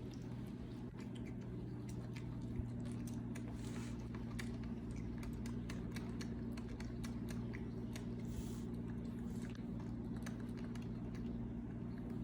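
Monkeys chewing and biting fruit: irregular small clicks and crunches, over a steady low hum.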